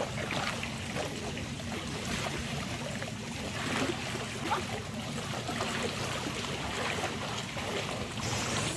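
Shallow mountain stream flowing and babbling over rocks, a steady rush of water with many small irregular splashes.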